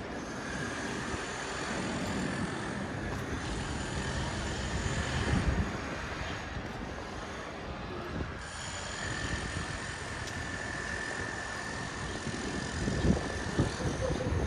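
City street ambience: steady traffic noise with a low rumble, and a faint high steady tone that comes in twice.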